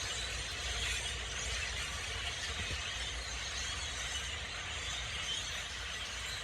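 A large flock of birds chattering in a dense, crackling mass of calls, over a steady low rumble.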